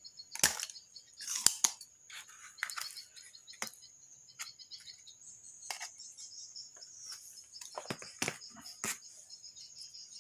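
Irregular sharp clicks, taps and short scrapes of small tools working on a refrigerator's circuit board while components are desoldered and pulled off, about nine distinct clicks. A steady high cricket-like trill continues underneath.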